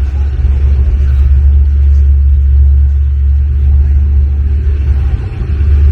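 Suzuki DR200 single-cylinder four-stroke dirt bike running at low speed, a steady low rumble that holds throughout.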